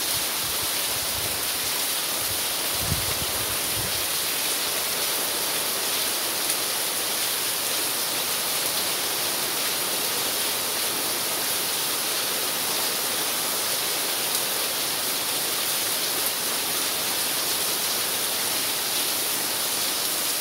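Heavy rain pouring down steadily on garden plants and a paved path: a dense, even hiss of a downpour.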